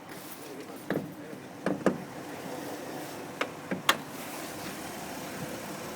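A 2002 Hyundai Santa Fe's 2.7-litre DOHC 24-valve V6 idling steadily, with a handful of sharp clicks and knocks over the first four seconds.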